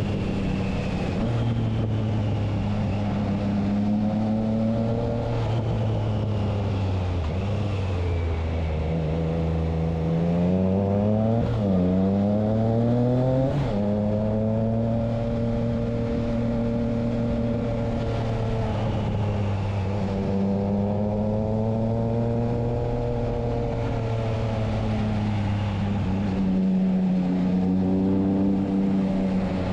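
Triumph Trident 660's inline three-cylinder engine through a Spark exhaust with the dB killer fitted, running at mostly steady revs. The engine note sinks from about eight seconds in, then climbs sharply again as the throttle opens, before settling back to a steady pitch.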